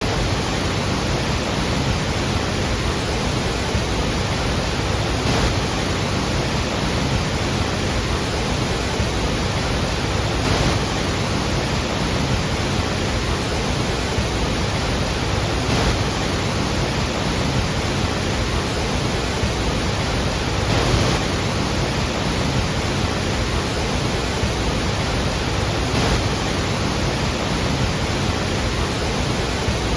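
Iguazu Falls waterfall: a great mass of water falling in a steady, dense rush of noise, with slight swells about every five seconds.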